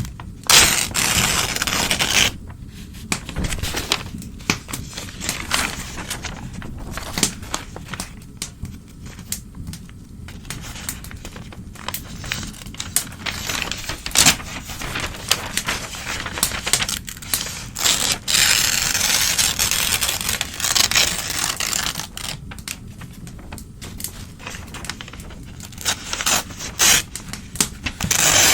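Old newspaper being torn and handled by hand: rasping rips of varying length with crackling and rustling between them, several long tears standing out.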